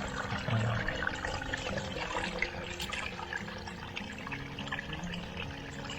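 Shallow water trickling and splashing, with many small irregular splashes.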